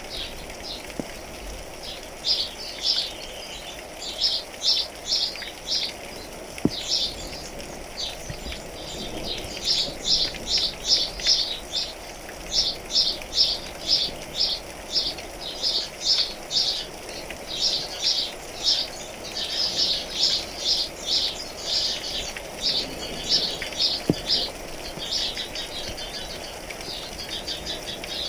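Birds chirping in bouts of short, high notes, about three or four a second, over the steady hiss of falling rain. The chirping is thickest through the middle and thins out near the end.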